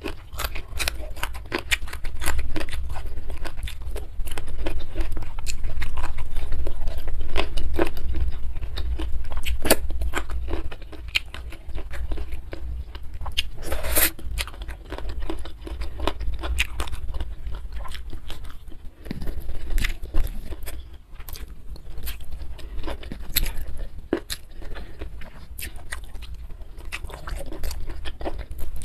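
Close-miked eating sounds: biting and chewing raw petai (stink beans) with rice, in irregular wet crunches and mouth clicks, with one sharper crunch about halfway through.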